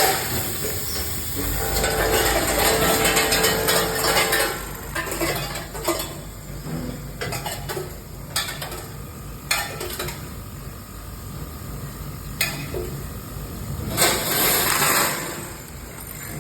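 Automatic counting and packaging machine running: small products rattling and clinking as they are fed and conveyed, over a rough mechanical whirr, with scattered sharp clicks and a louder rush of clatter near the end.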